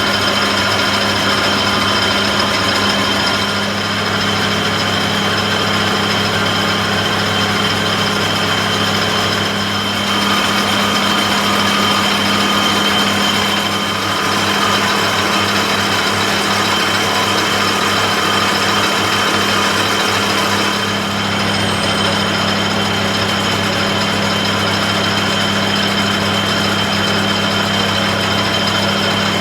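Power tool motor running steadily, with brief slight dips in level a few times.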